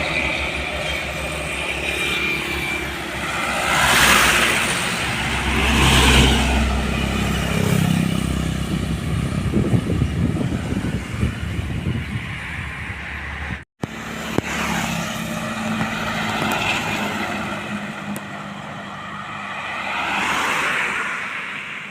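Road traffic of trucks and cars passing one after another, each swelling up and fading away, with a heavy diesel truck engine running low and steady for several seconds near the middle. The sound breaks off abruptly for an instant about 14 seconds in, then more vehicles pass.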